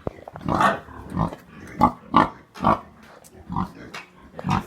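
Pigs grunting, a quick run of short grunts at about two a second.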